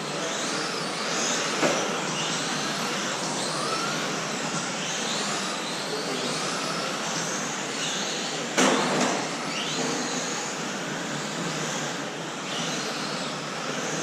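Several electric 1/10 RC trucks racing, their motors whining up and down in pitch as they accelerate and brake, over a steady hiss of tyres and running noise. A sharp knock about eight and a half seconds in, and a lighter one near two seconds.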